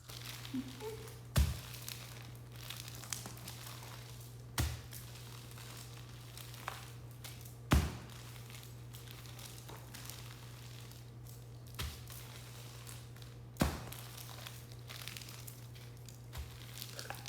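Parchment paper crinkling and rustling as a pizza crust is handled and cut, with four sharp knocks spread through and a steady low hum underneath.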